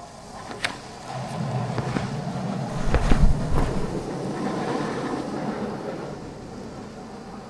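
Longboard wheels (Orangatang Caguama 85 mm, 77a urethane) rolling over pavement with a steady rumble, broken by a few sharp clicks and a heavy low thump about three seconds in.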